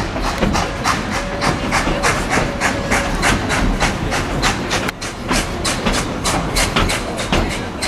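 A steam train running at a steady pace, its locomotive's exhaust beating in quick, even chuffs at about four a second, with hiss and the rumble of the cars on the rails.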